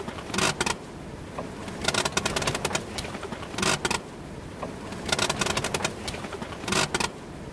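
Wind and sea noise aboard a small sailboat under jib in 20 to 25 knots of wind. A burst of rapid clattering comes about every second and a half.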